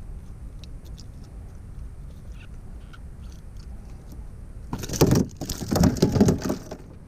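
Loud splashing at the water's surface for about two seconds, starting near the end, after a stretch of faint scattered ticks.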